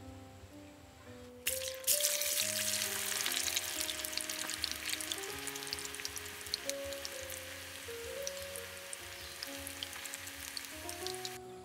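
Food goes into hot oil in a wok and starts frying all at once about a second and a half in, then keeps sizzling vigorously until it cuts off suddenly near the end. Instrumental background music plays underneath.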